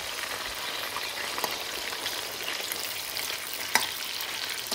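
Marinated chicken breast pieces sizzling steadily as they shallow-fry in hot oil and ghee in a karahi, stirred with a metal spoon; this stage seals the outside and draws the liquid out of the chicken. Two sharp clicks come through, about a second and a half in and near the end.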